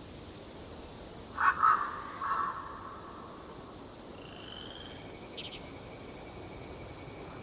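Forest birds calling over a steady outdoor hush: a pair of loud, harsh calls about a second and a half in, then a short high whistle and a thin, steady high note with a few quick clicks in the second half.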